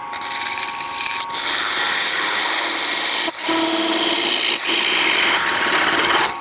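Parting tool cutting into a small spinning wood vase on a lathe to part it off, a loud rough scraping cut made in several passes with brief pauses, over the steady hum of the lathe.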